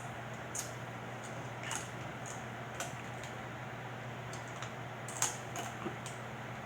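Snow crab leg shells clicking and crackling as they are handled and broken open: scattered sharp clicks, roughly one a second, over a low steady hum.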